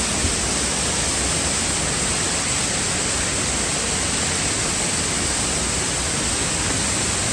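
Steady rush of falling water from the Erin Ijesa waterfall, an even, unbroken hiss with no change in level.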